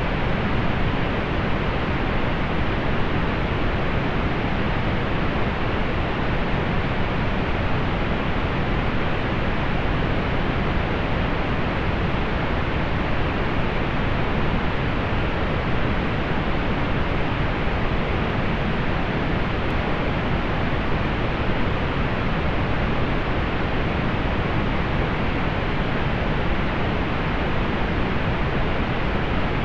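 Steady pink noise, an even hiss weighted toward the low end and softened above, with no change in level or character.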